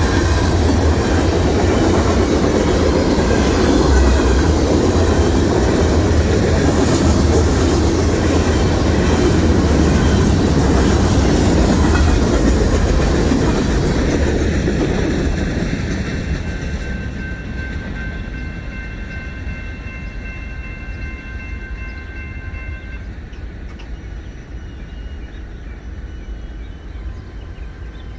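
Freight train passing, with wheels clattering over the rail joints and a heavy rumble for about fifteen seconds, then fading away as it moves off. While it fades, a thin high steady whine sounds for several seconds.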